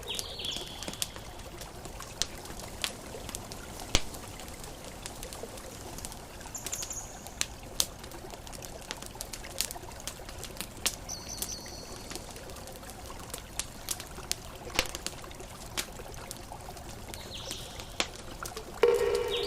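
Campfire crackling with irregular sharp pops over a steady wash of ocean waves. A few brief high bird chirps, and a louder pitched bird call near the end.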